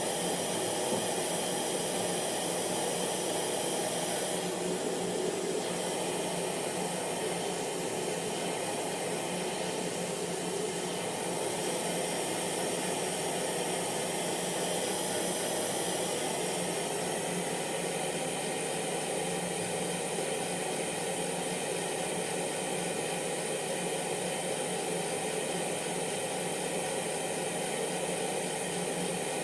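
Hair dryer running steadily: a constant airflow rush with a faint motor hum.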